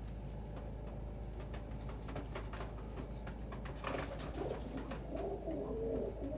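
Domestic pigeons in a loft cooing, the cooing starting about four seconds in and running on in repeated phrases, with a few short high squeaks and faint scattered clicks before it.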